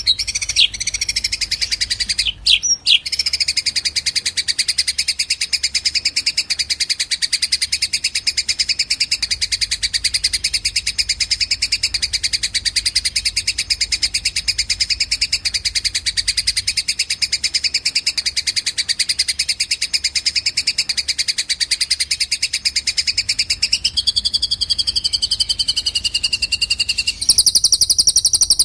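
Recorded masteran birdsong of sparrow and cililin calls: a long, very fast, unbroken trill of high chirps, with a few quick sweeping notes in the first seconds. Near the end it switches abruptly to a louder, higher, differently patterned chatter.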